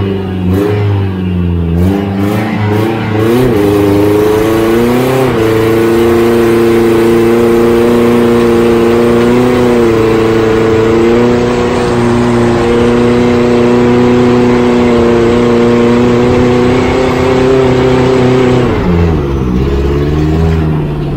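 Turbocharged Toyota 1NZ-FE four-cylinder engine in a Lada 2105, heard from inside the car as it is driven hard. It revs up in a few uneven pulls and is then held at steady high revs for about thirteen seconds. The revs drop near the end and climb again.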